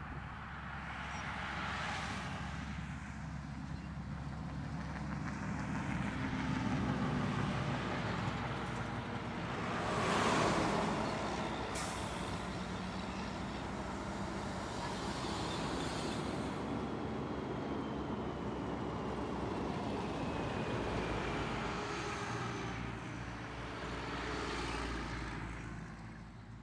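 Heavy sand-hauling trucks passing on a road one after another, with diesel engine rumble and tyre noise swelling and fading as each goes by. The loudest pass comes about ten seconds in.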